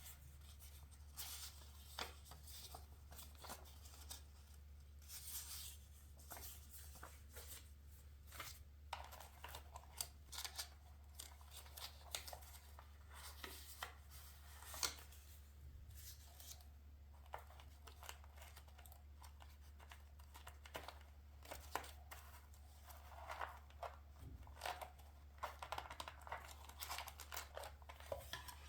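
Scissors snipping paper in quick, irregular cuts, with paper now and then handled and torn, over a low steady hum.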